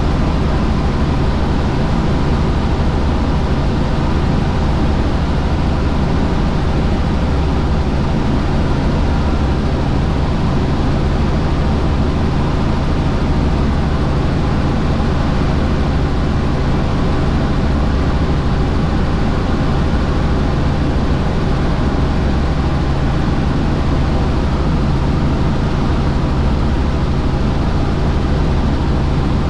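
Helicopter in flight: a loud, steady drone of engine and rotor with a low hum, unchanging throughout.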